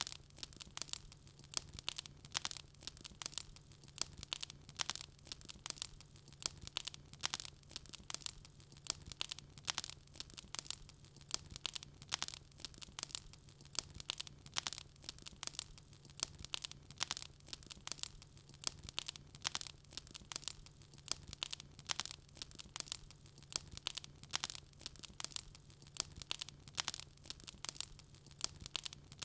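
Wood fire in a fireplace crackling steadily, with many small sharp pops and snaps several times a second, over a faint low steady hum.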